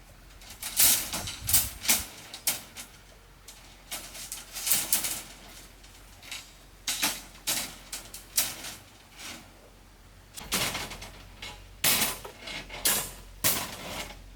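Irregular clicks and knocks from hand-tool construction work, in quick clusters with short pauses between.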